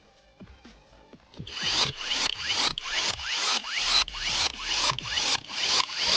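A run of short, quick rasping strokes, about two a second, starting about a second and a half in after a few faint ticks.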